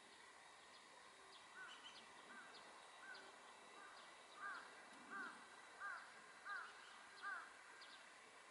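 A bird calling in a steady series of about nine short, arched notes, evenly spaced, louder from about halfway through, with faint higher chirps of other small birds behind.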